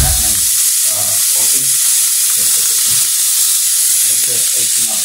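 Food frying on a camp cooker, a steady sizzling hiss.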